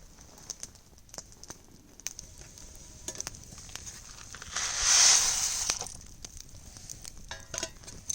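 Small campfire crackling, with scattered sharp pops throughout. A little past the middle a loud rushing hiss lasts about a second.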